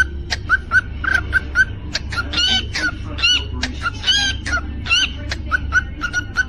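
Cockatiel chirping in a quick run of short, repeated notes, with a few louder warbling whistles in the middle.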